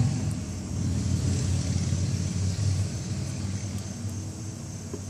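A motor vehicle's engine running close by with a low hum, loudest at the start and fading away over the following seconds.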